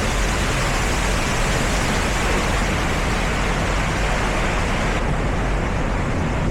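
Waterfall rushing: a loud, steady wash of falling water with no break, its hiss dulling slightly about five seconds in.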